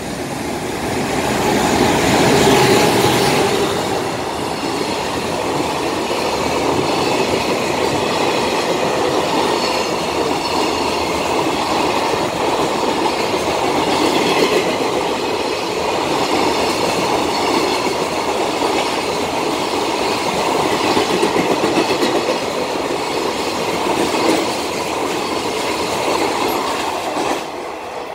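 JR Freight EH500 electric locomotive passing at the head of a long container freight train: the locomotive goes by loudest about two to four seconds in, then the container wagons run past in a steady wheel-on-rail clatter with a thin high ringing. Near the end the last wagon passes and the sound drops away.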